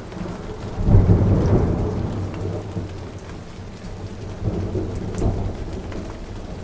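Thunder over steady rainfall: a loud low rumble of thunder about a second in that slowly fades, and a second, weaker roll about four and a half seconds in.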